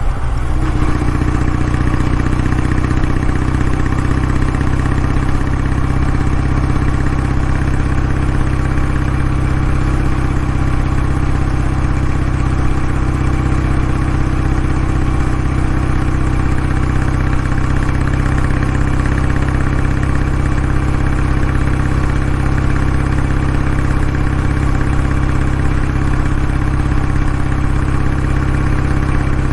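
Kawasaki W650 motorcycle's air-cooled parallel-twin engine idling steadily through its exhaust, a loud even rumble with no change in revs.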